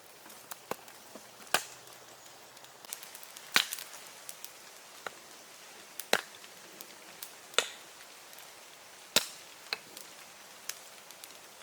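Wood being chopped: five loud, sharp strikes at irregular intervals of about one and a half to two and a half seconds, with fainter knocks between them.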